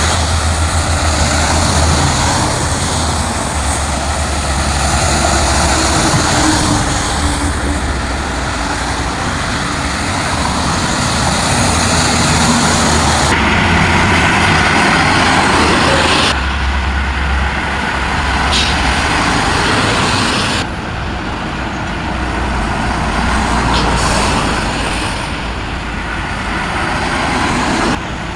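Heavy trucks with trailers driving on a highway: continuous engine rumble and tyre noise, the sound shifting abruptly a few times.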